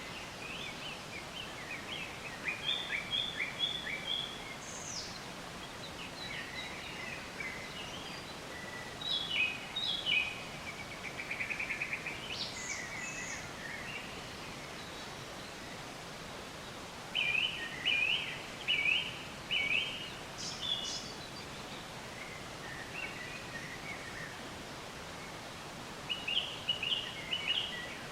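Several songbirds chirping in short phrases of a few repeated notes, with one brief fast trill, over a steady hiss of outdoor ambience.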